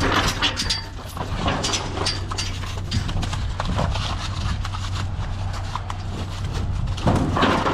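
Cattle hooves knocking on a livestock trailer's floor and loading chute as cows are loaded, over the steady low hum of an idling engine.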